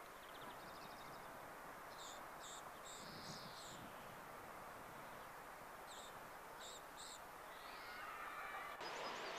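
Faint outdoor ambience: a steady hiss of background noise with small groups of short, high bird chirps, about two seconds in and again about six seconds in. Near the end the background noise gets louder and a quick run of high chirps starts.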